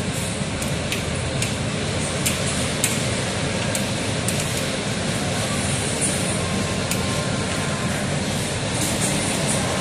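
Heavy rain pouring steadily in wind, a dense even hiss with occasional sharp ticks at irregular intervals.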